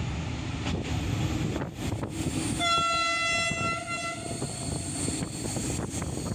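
Train horn sounding one steady blast of about a second and a half, a little past two and a half seconds in, over the rumble and wind noise of the moving passenger coach. The line is unelectrified, so the train is diesel-hauled.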